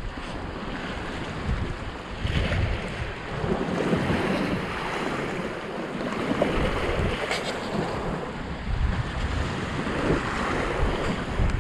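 Strong wind buffeting the microphone in gusts over the sound of sea waves breaking on rocks.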